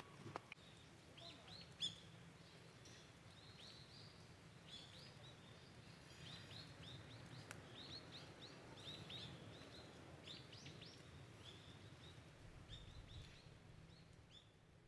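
Faint small-bird chirps, many short falling calls in quick runs, over a low steady background rumble.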